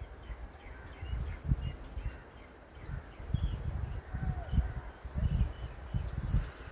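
Birds chirping and calling, with short scattered calls and one longer curving call about four seconds in, over irregular low rumbling.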